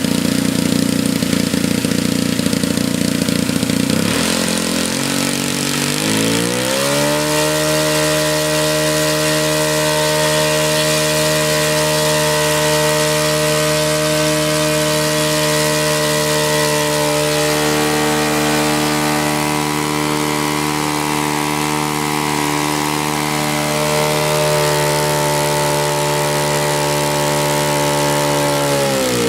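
Saito FA-125a single-cylinder four-stroke glow engine of an RC model P-47 running at low speed, then opened up over about three seconds to a steady high-rpm run, and throttled back near the end.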